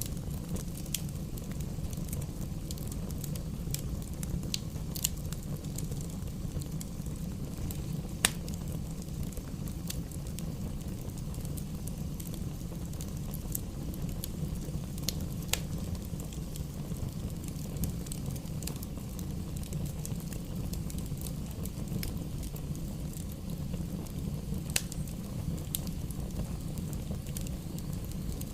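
Wood fire burning in a fireplace: a steady low rumble of flames with scattered sharp crackles and pops from the logs, one louder pop about eight seconds in.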